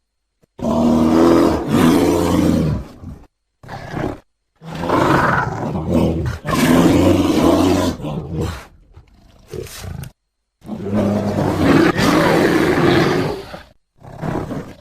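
A large animal's deep, loud calls: several long ones of two to three seconds each, with shorter calls between. Each call breaks off abruptly into silence.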